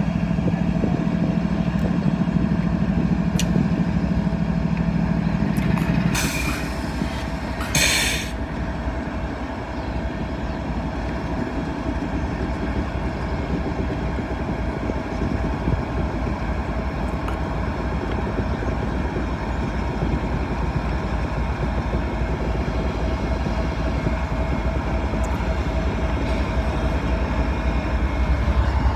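Freight train of auto rack cars rolling slowly past as it gets moving again after a brief stop. A steady low hum for the first six seconds, two short hissing bursts around six and eight seconds in, then a continuous clatter of wheels.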